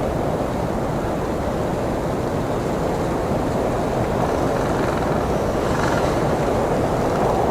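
Blizzard wind blowing in a steady, low, rushing gust, with a brief higher hiss swelling about six seconds in.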